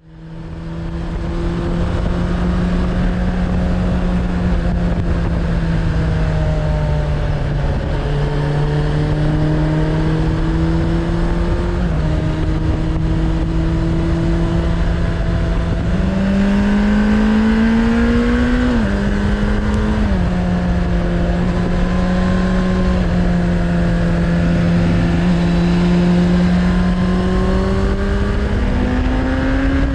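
Suzuki Bandit 600's inline-four engine running through a Hashiru aftermarket exhaust while riding, fading in at the start. It holds mostly steady revs, with the pitch climbing and dropping several times in the middle as the rider rolls the throttle and shifts gears, over a low rumble of wind and road noise.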